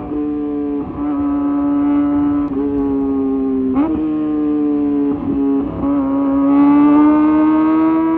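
Kawasaki ZX-25R's inline-four engine through a high-mounted Leovince GP Evo exhaust, running at high, fairly steady revs with a high-pitched tone. Its pitch briefly dips several times, then climbs and grows louder near the end.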